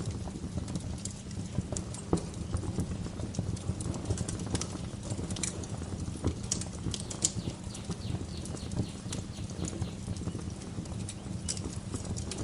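Wood fire crackling, with irregular sharp pops and snaps over a steady low rumble. Birds chirp faintly now and then, most of all in the middle.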